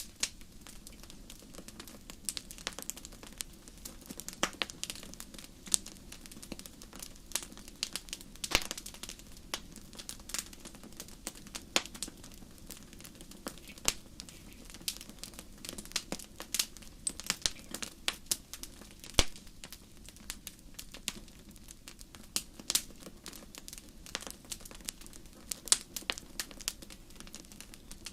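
Wood fire burning in a fireplace grate: an irregular, constant crackle of small snaps, with a few louder pops, over a low, steady rush of the flames.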